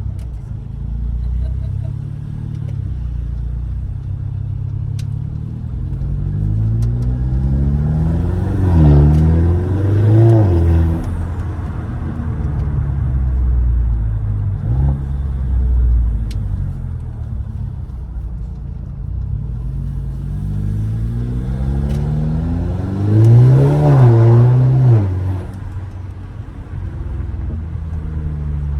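Straight-piped 2015 Mercedes CLA 250 with an open intake: its turbocharged 2.0-litre four-cylinder runs at a steady cruise and is revved up twice, the note climbing and dropping back at the shifts, loudest about eight seconds in and again near three-quarters through.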